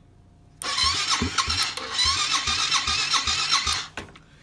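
Four-stroke dirt bike engine running, really loud, with a low pulse about four times a second under a raspy exhaust. It comes in suddenly about half a second in and cuts off abruptly near the end.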